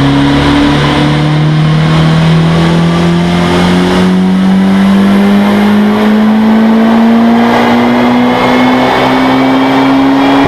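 Turbocharged Opel Kadett E (Vauxhall Astra Mk2) 2.0-litre 16-valve four-cylinder under full-throttle acceleration, its engine note climbing slowly and steadily in one long pull in a high gear.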